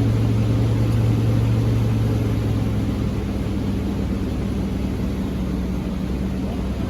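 2003 Nissan Frontier's engine idling steadily shortly after a cold start; its tone shifts slightly about two and a half seconds in.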